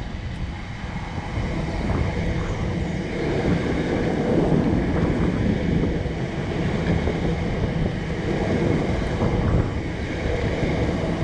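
Class 455 electric multiple unit running past beneath the footbridge: a steady rumble of wheels on rail that swells over the first few seconds as the train draws close, with wind buffeting the microphone.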